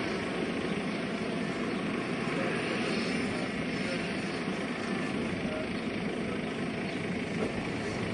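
JetCat PHT3 gas-turbine-powered model Hughes 500E helicopter running, a steady, unbroken noise.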